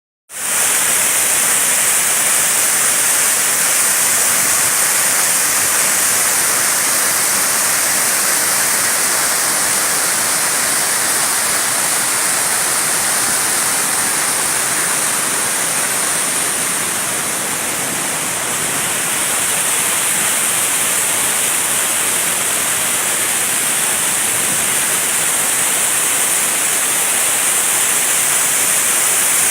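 Waterfall, a loud, steady rush of falling water that eases slightly about two-thirds of the way through.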